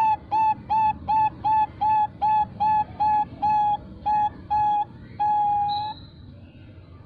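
Female Bangkok-strain zebra dove (perkutut) calling: a quick run of about a dozen short, clear cooing notes, about three a second, closing on one longer drawn-out note about five seconds in, the long ending the breed is kept for.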